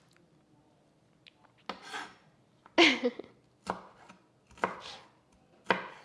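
Knife chopping food on a cutting board: five separate sharp chops about a second apart.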